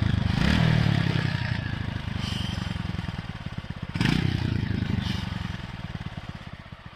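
TVS Apache RTR 160 4V single-cylinder engine blipped twice, about four seconds apart, and settling back toward idle. The exhaust is heard through a silencer whose loose inner pipe has just been welded back in place, and a light noise remains that the owner puts down to a badly fitted gold-coloured heat-shield sheet.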